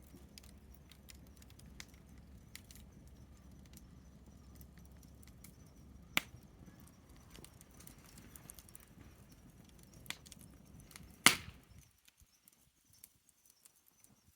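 Wood fire crackling, with scattered sharp pops over a low rumble; two louder pops come about six and eleven seconds in. The rumble cuts off abruptly about twelve seconds in.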